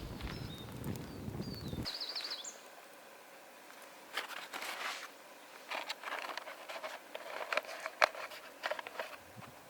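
Irregular rustling and crackling on a forest floor, in scattered clusters, with a short bird twitter about two seconds in.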